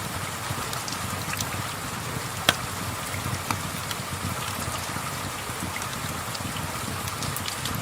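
Steady rain falling, with the scattered pops and crackles of a wood fire; one pop about two and a half seconds in is louder than the rest.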